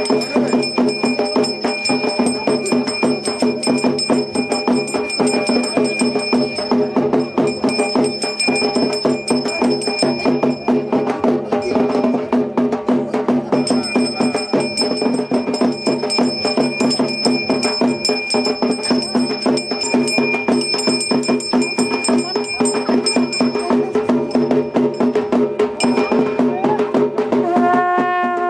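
Traditional percussion music: fast, continuous drumming with ringing metal tones that come and go. Near the end, a held horn-like note enters.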